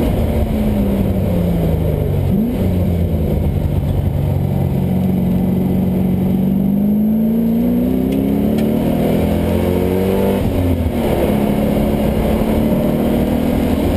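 Onboard sound of a Mazda Miata's swapped-in LS1 V8 engine running under varying throttle. The engine note falls, then climbs and sinks again, with a quick rev about two and a half seconds in and another about ten and a half seconds in. It holds a steady pitch near the end.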